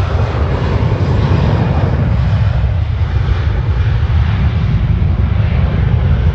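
Airliner engine noise: a steady, loud sound with most of its weight deep and low.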